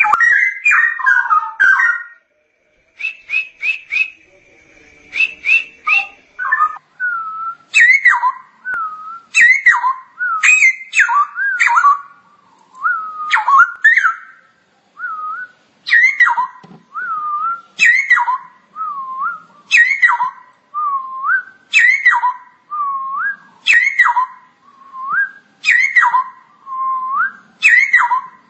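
Straw-headed bulbul (cucak rowo) singing loud, clear whistled phrases with looping rises and falls in pitch. Through the second half the phrases repeat about every two seconds.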